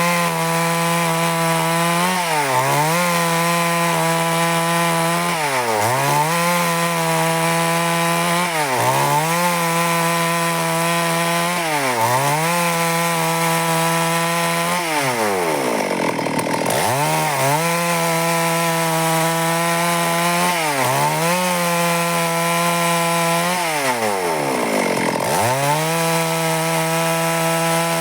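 Stihl MS 382 two-stroke chainsaw running near full speed while ripping through wood to cut boards. Every two to four seconds its engine speed drops briefly and climbs straight back, with two deeper drops about halfway through and near the end.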